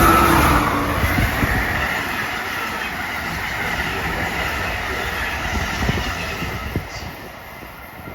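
A passenger train running past on the tracks, with a heavy rumble, wheel-on-rail clatter and a faint squeal, growing steadily fainter as it moves away.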